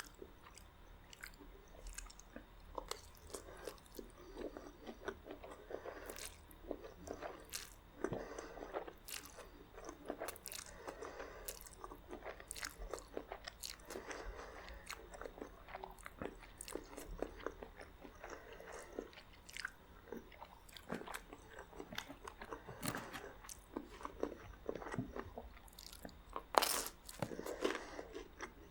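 Close-miked eating sounds: a person chewing and biting, with wet mouth noises and frequent sharp crunches typical of crunchy garlic bread eaten alongside spaghetti. One louder crunch stands out near the end.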